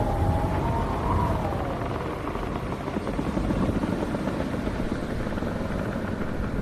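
Howling wind: a wavering whistle that rises and falls, fading out about two seconds in, over a steady low rumble of wind.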